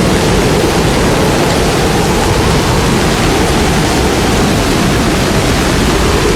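Heavy cyclone rain and wind: a loud, steady rush of noise with no let-up.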